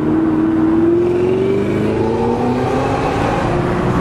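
A car engine accelerating: its note climbs steadily for about two and a half seconds, then holds level over a low rumble.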